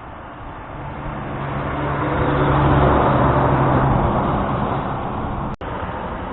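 A heavy truck driving past: its engine note and tyre noise rise to a peak about three seconds in, then fade away.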